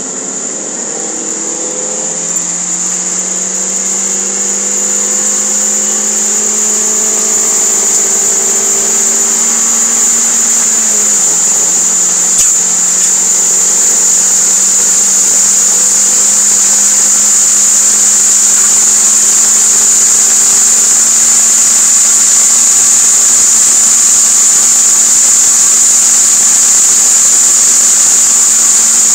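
Toyota MR2 Spyder's 1.8-litre four-cylinder engine accelerating hard, heard from inside the cabin. Its pitch rises through one gear, drops at an upshift about eleven seconds in, then holds at high revs. A steady high hiss sits over the engine throughout.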